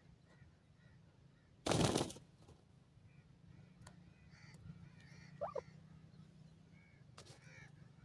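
Faint, scattered bird chirps and short calls, with a brief gliding call about five and a half seconds in. About two seconds in, one sudden loud rustling burst lasts about half a second.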